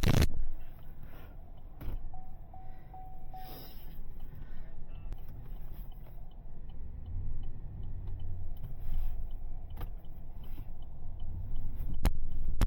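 A vehicle engine running steadily at a low rumble, with scattered clicks and one sharp knock near the end.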